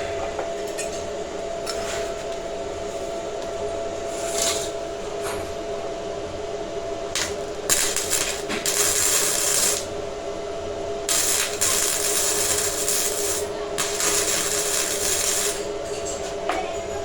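Metalworking on steel: a tool scraping or rubbing against the metal in several stretches of a couple of seconds each, over a steady hum.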